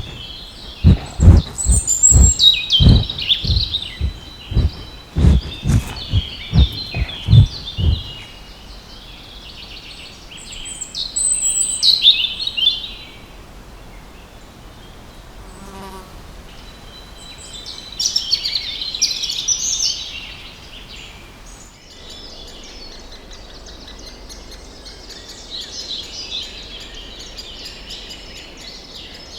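Wild birds singing in short phrases, with a run of loud, low thumps about twice a second through the first eight seconds. About two-thirds of the way in the background changes abruptly and a denser, steady chatter of chirping birds takes over.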